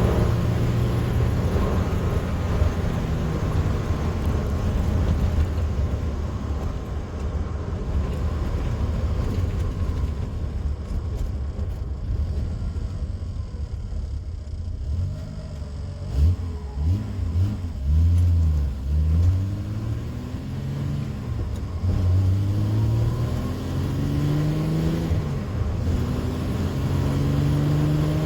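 1979 TVR Taimar's 3.0 Ford Essex V6 engine on the move, running steadily at first and quieter for a while mid-way. Its revs then rise and drop several times and climb again near the end.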